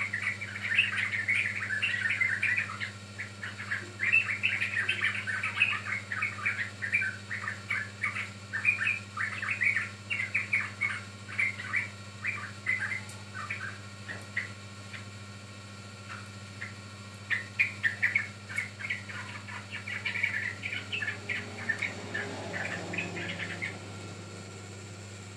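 Yellow-vented bulbul chirping in fast runs of short notes. The chirps thin out about halfway through and pick up again near the end, over a steady low hum.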